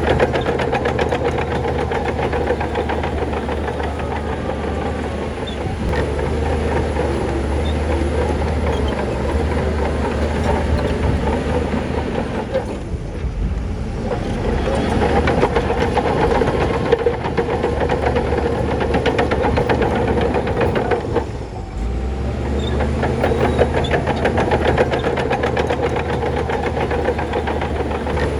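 Crawler bulldozer's diesel engine running steadily, with the continuous clank and rattle of its steel tracks. The sound dips briefly twice, about halfway through and again about three-quarters of the way through.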